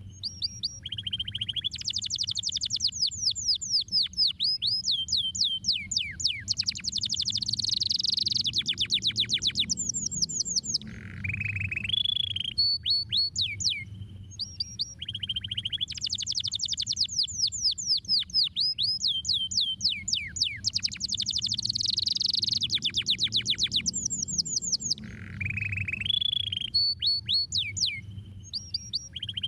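Domestic canary singing a long song of rapid trills and rolls made of fast, high, downward-sweeping notes, with short pauses between phrases. The same song sequence repeats about halfway through, as in a looped recording, over a faint low hum.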